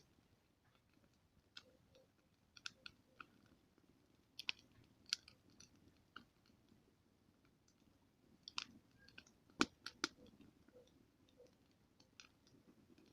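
Campfire crackling: irregular sharp pops and snaps from the burning wood over a faint low rumble of the flames, the loudest snap nearly ten seconds in.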